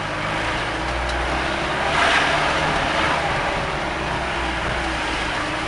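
Mahindra Bolero jeep driving on a rough forest track: steady engine and tyre noise with a low rumble, and a louder rush of noise about two seconds in.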